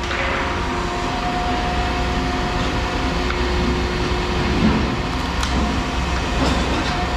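A machine's engine running steadily, a low rumble with a steady hum over it.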